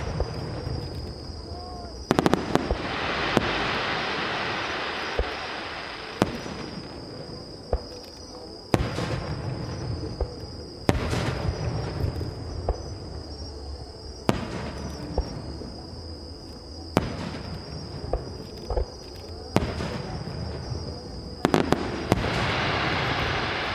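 Aerial firework shells bursting with sharp bangs every few seconds. Several of the bursts are followed by a long crackling hiss from the falling stars.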